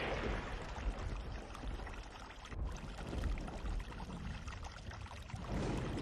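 Chilli gravy sizzling in hot oil in a frying pan. About five and a half seconds in, a cornflour-and-water slurry is poured into the pan and the sizzling grows louder.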